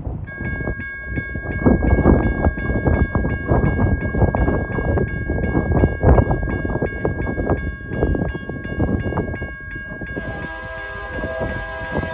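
Freight train rolling past with a heavy rumble of wheels on rail, while a bell rings rapidly and steadily. About ten seconds in, a locomotive horn starts sounding and carries on.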